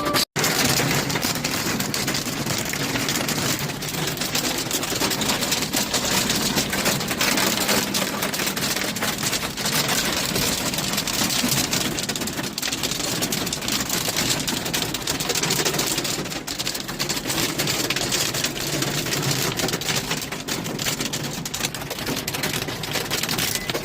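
Heavy rain mixed with hail pelting down, a loud, steady hiss crowded with countless sharp hits of drops and hailstones.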